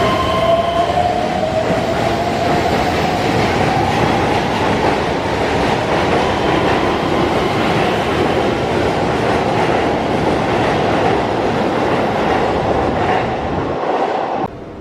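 Keihan electric train running through the station with a loud, steady rumble and a motor whine that rises slowly in pitch as it gathers speed. The sound cuts off abruptly near the end.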